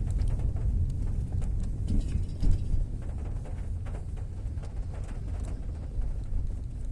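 Fairly heavy rain: a steady low rumble with many small drips and taps scattered through it.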